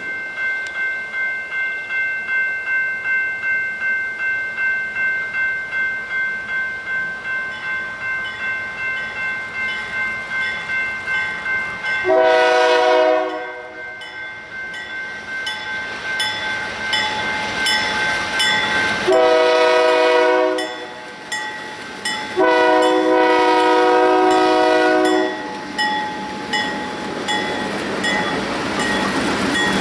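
Iron ore train rolling by with a steady rhythmic clatter of wheels over rail joints and a high steady whine, then the diesel locomotive's air horn sounds three times: one short blast, then two longer ones.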